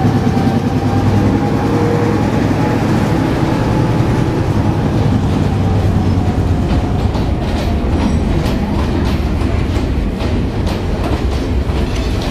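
Sri Lanka Railways Class M6 diesel-electric locomotive running as it pulls slowly into the station close by, its engine giving a steady hum. From about six seconds in, the wheels of the following wagons and passenger coaches click over the rail joints.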